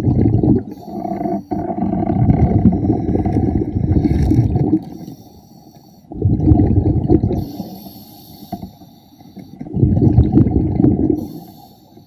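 A diver breathing underwater: exhaled air bubbling out in three long gurgling bursts, the first the longest, with quieter pauses between them.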